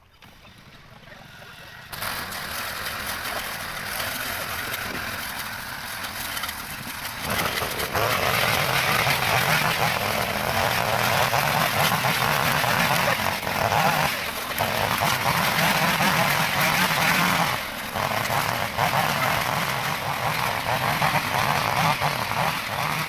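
A dense, continuous chorus of many animal calls, coming in about two seconds in and growing louder at about seven and a half seconds.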